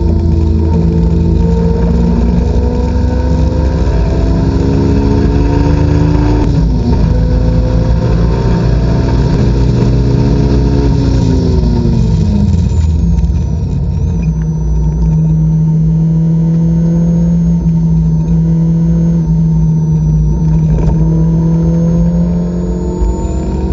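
Supercharged Honda S2000's four-cylinder engine heard from inside the cabin under hard acceleration, its pitch rising with a quick upshift about six seconds in, then climbing again. About halfway through the driver lifts and the note falls and settles into a steady lower drone, with a faint high whine over it.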